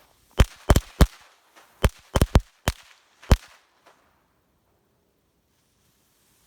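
A pack of firecrackers going off: about ten sharp bangs at irregular intervals over roughly three seconds, some in quick doubles and triples.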